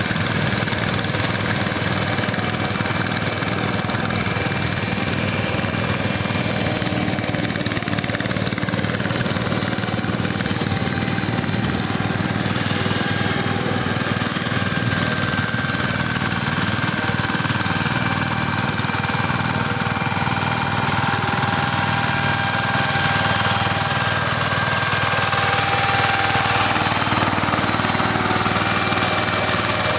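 Tractor diesel engine running steadily at working speed, with a rhythmic mechanical clatter; it grows slightly louder near the end.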